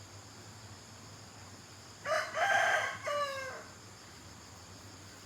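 A rooster crowing once, a call of about a second and a half whose last part falls in pitch, over a steady high chirring of insects.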